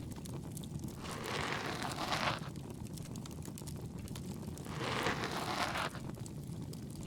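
Ear-pick scraping inside the ear in two slow, scratchy strokes, each about a second long, about a second and five seconds in. Under it runs the steady crackle of a bonfire.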